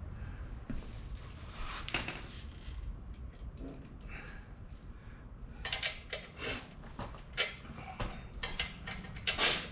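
Hand tools and metal parts clinking, tapping and rubbing in irregular short clicks, busier in the second half, as the four-wheeler's chain and controller are worked on.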